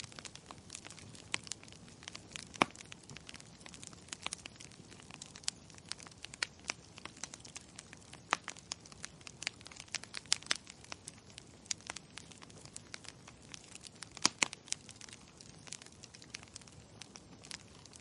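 Wood fire crackling in a fireplace: irregular sharp pops and snaps over a soft steady hiss, with a few louder pops scattered through.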